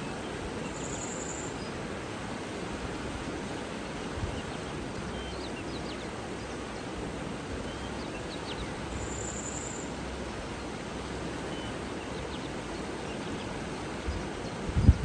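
Steady rush of flowing water with faint, brief bird chirps, and two short high buzzy calls, one about a second in and one past the middle. A few low thumps come in near the end.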